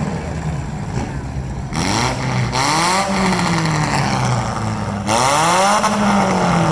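Four-cylinder demolition derby car engines running, with one revving hard twice: the pitch climbs and falls back each time, over the steady note of other engines idling.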